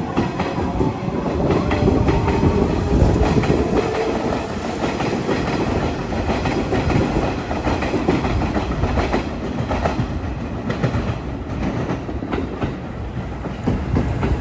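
A Kintetsu train passing close by, its wheels clacking steadily over the rail joints, with a faint whine in the first few seconds.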